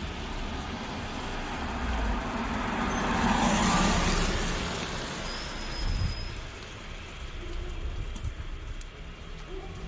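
Road traffic noise, with a vehicle passing that swells and fades about three to four seconds in.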